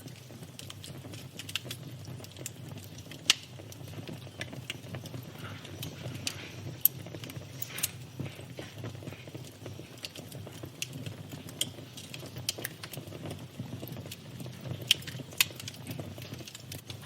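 Wood fire crackling: irregular sharp pops and snaps over a steady low rumble, with a handful of much louder pops.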